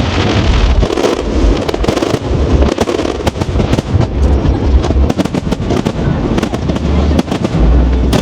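Aerial fireworks display: many shells bursting in rapid, overlapping succession, a continuous mix of booms and sharp cracks.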